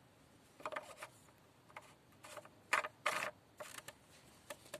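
Scattered clicks and scrapes of the engine's oil filler cap being handled, about half a dozen short handling noises at uneven intervals, the loudest near the middle.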